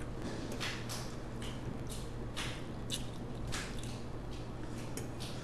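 Close-miked wet chewing and mouth smacking while eating spaghetti: a string of short, squishy clicks about twice a second, over a steady low hum.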